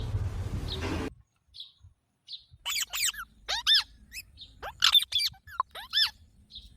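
Green parrot calling: a series of short chirping squawks, each a quick rising-and-falling note, starting about two and a half seconds in. Before that, a steady hiss cuts off about a second in.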